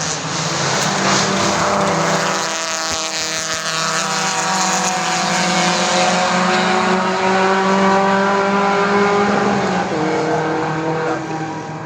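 Racing car engine running hard at high revs, its pitch climbing slowly over several seconds, then changing about ten seconds in.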